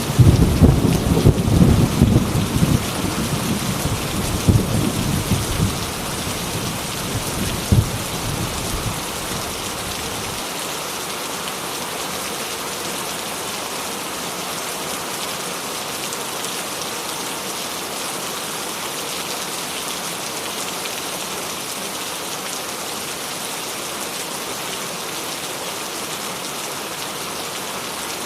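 Steady heavy rain falling, with a rumble of thunder in the first several seconds that fades out about ten seconds in, leaving only the even hiss of the rain.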